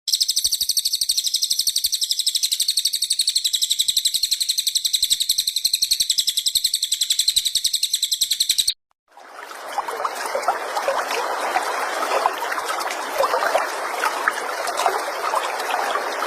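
Crested jay (cililin) giving a long, rapid, high-pitched rattling trill that cuts off abruptly after about nine seconds. After a short gap, a dense, lower crackling chatter of many small clicks starts.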